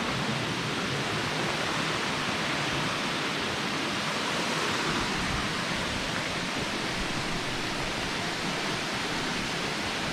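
Steady rushing of a waterfall cascading over rocks.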